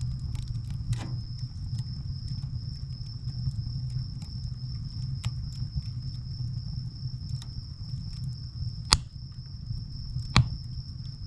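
Wood fire burning with a low steady rumble and scattered crackles, and two sharp, loud pops of burning firewood near the end.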